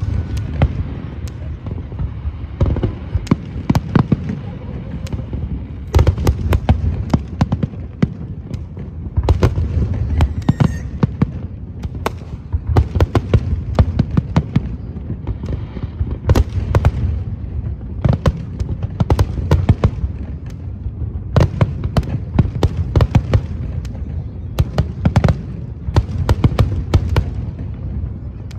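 Fireworks display: a continuous barrage of sharp bangs and crackling reports over a steady low rumble of booms.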